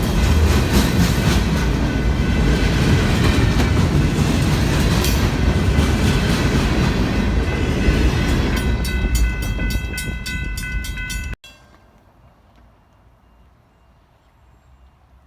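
Freight train rolling past close by with a loud, steady rumble of wheels on rail. Near the end, wheels click over rail joints about four times a second, with a high tone. The sound then cuts off abruptly, leaving only a faint background.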